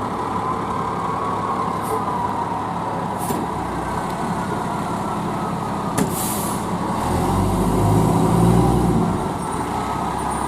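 A fire truck's diesel engine running, with a short air-brake hiss about six seconds in. The engine then revs louder for about two seconds as the truck moves off, and settles back.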